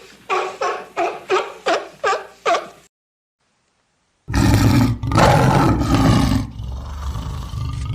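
An animal giving a quick run of about eight short pitched calls, then after a pause of a second or so a long, loud, low roar lasting several seconds.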